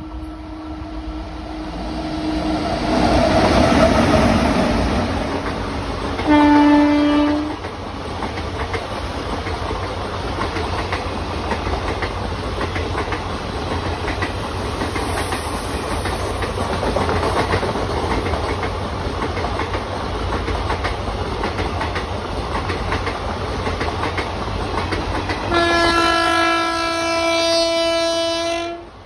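An electric freight train, a WAG-9 locomotive hauling goods wagons, passes close with a loud rolling rumble and wheel clatter. A locomotive horn gives a short loud blast about six seconds in. Near the end the WAP-7 electric locomotive of the oncoming express sounds a long horn for about three seconds.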